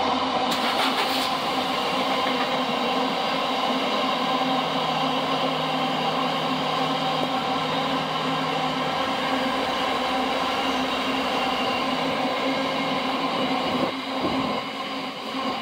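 A passing train: a steady run of wheel and traction noise with a constant whine in it, easing off about fourteen seconds in.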